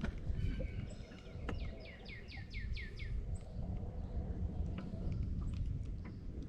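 Wind rumbling on the microphone, with a small bird singing a quick run of about seven falling notes around two to three seconds in.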